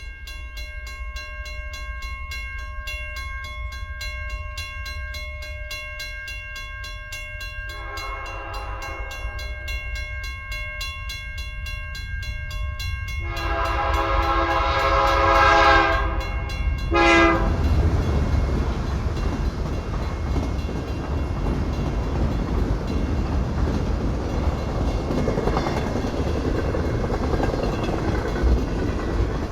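Railroad crossing bell ringing in a rapid steady ticking, then a freight locomotive's horn sounds three blasts: a short one about 8 seconds in, a long one about 13 seconds in and a brief one near 17 seconds. The freight train then passes over the crossing with a steady rumble of wheels and cars.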